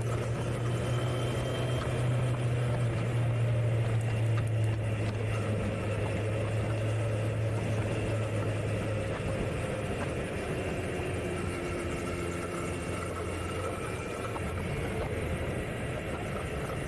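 Kawasaki Z900 motorcycle's inline-four engine running steadily while the bike is ridden at an easy pace. About halfway through the engine note drops in pitch and gets quieter as the throttle eases.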